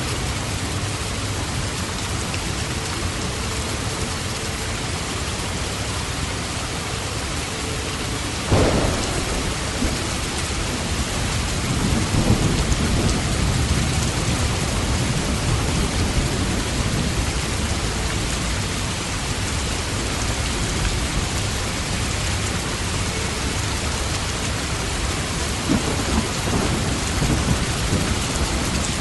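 Steady rain with thunder: a sharp thunderclap about a third of the way in, followed by rolling low rumbles, and another rumble near the end.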